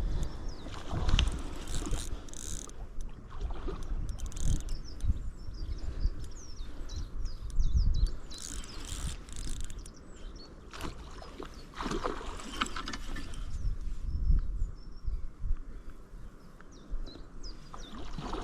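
Irregular knocks and low rumbling, with many short bird chirps throughout.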